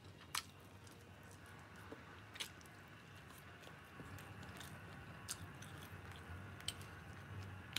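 Faint close-up chewing of fried chicken, broken by a few sharp clicks and crunches spread through.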